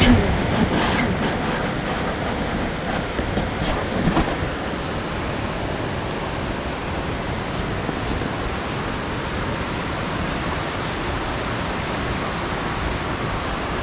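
Steady heavy rain making a dense, even hiss, with a couple of slightly louder moments about a second in and around four seconds.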